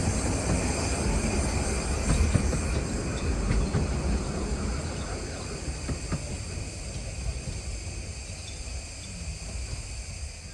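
15-inch gauge miniature steam train running on the line, a steady rumble with small clicks that slowly fades away.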